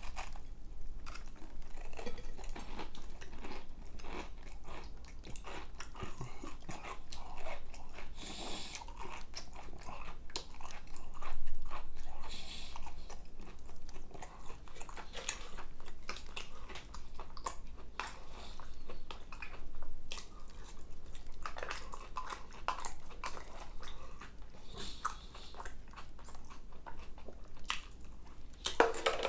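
Close-miked eating sounds: crunchy bites and wet chewing of fried chicken and cornbread, going on without pause, with a louder crunch about a dozen seconds in. Near the end a spoonful of macaroni and cheese is chewed.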